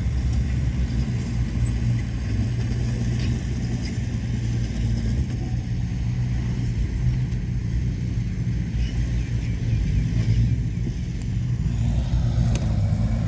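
Diesel engine of heavy earthmoving machinery running steadily under load, a deep, even drone; near the end a harsher mid-range noise joins in.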